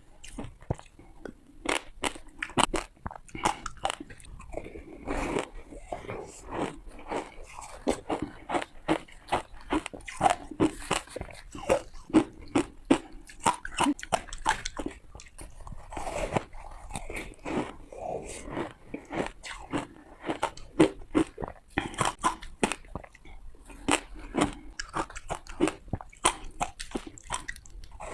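Ice being bitten and crunched between the teeth close to the microphone: a long run of sharp, irregular crunches, several a second, with short pauses between bites.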